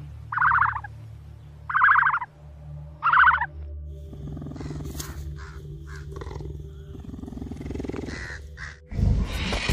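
Three short, loud, raspy calls about 1.4 s apart, then a cheetah's low, pulsing rumble that runs for about five seconds. A sudden loud low rush comes in near the end.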